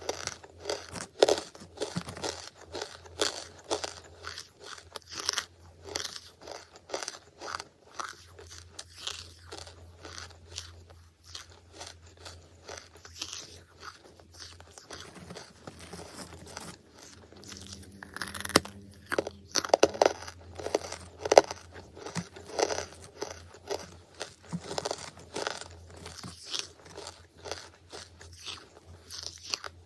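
Close-miked crunching and chewing of charcoal: a dense run of crisp, brittle crunches, with a group of louder bites about twenty seconds in.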